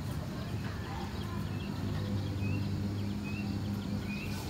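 Outdoor ambience: a bird repeating a short rising chirp about once a second over a steady low hum.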